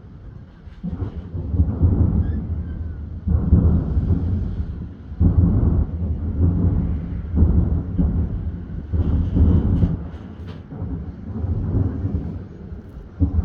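Aerial firework shells bursting in a rapid series of booms, about one a second, each low boom rolling on into the next. A few sharper cracks come about two thirds of the way through.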